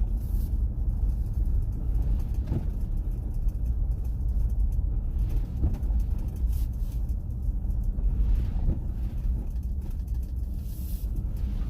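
Car driving on snowy roads: a steady low rumble of engine and tyres.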